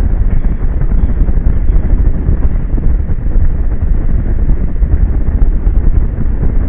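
Strong wind buffeting an outdoor microphone: a loud, gusting low rumble with no steady tone.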